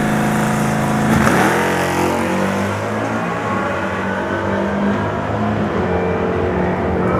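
Dodge Challenger SRT Hellcat's supercharged 6.2-litre Hemi V8 running at low speed as the car rolls forward. About a second in, the engine note changes sharply with a quick swing in pitch, then settles back to a steady rumble.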